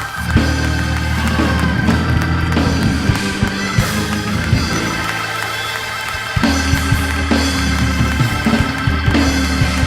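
Instrumental church music with a drum kit: long held low notes under frequent drum and cymbal strikes, the low notes dropping out briefly about five seconds in before a hard hit brings them back.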